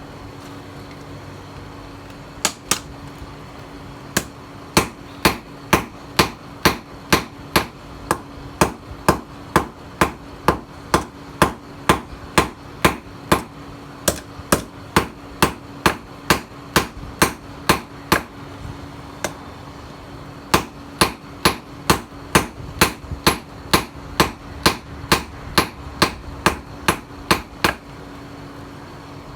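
Hand hammer striking steel on an anvil, forging a knife blank from a tiller blade: sharp ringing blows at about two a second, with a short pause midway.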